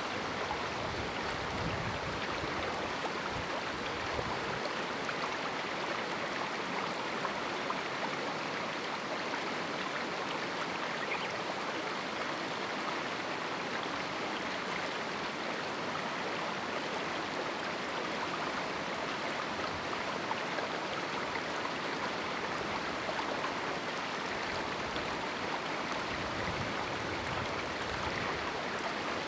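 A river running through a small rocky canyon: a steady, even rush of flowing water.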